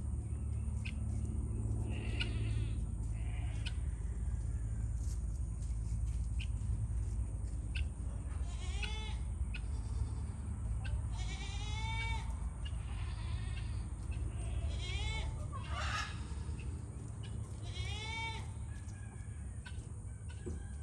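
Goats bleating, about four arching calls in the second half, over a steady low rumble with scattered light clicks.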